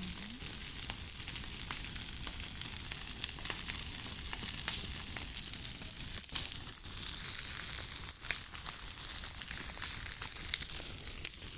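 Campfire burning with a steady hiss and scattered sharp crackles and pops.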